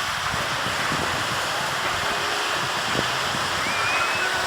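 Steady wash of sea surf breaking on the shore, mixed with wind on the microphone. A brief faint high whistle-like tone sounds near the end.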